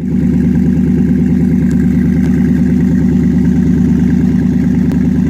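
2009 Dodge Challenger SRT8's 6.1-litre Hemi V8 idling steadily through a Corsa aftermarket exhaust.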